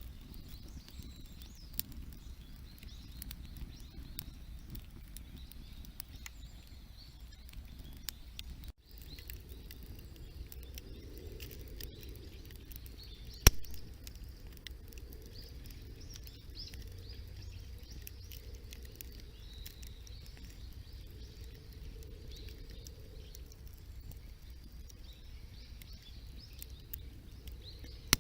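Wood campfire crackling, with scattered small snaps and one sharp, loud pop about halfway through, over a low outdoor rumble.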